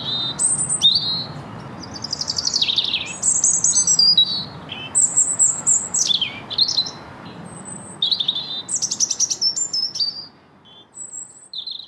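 Woodland birdsong: several birds singing and calling in short, overlapping whistled phrases over a faint low rumble. The song thins out near the end.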